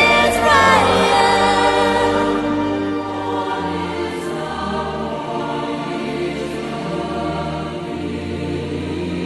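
Choral Christmas music: a choir singing with accompaniment, its moving lines at the start giving way to softer sustained chords after a couple of seconds.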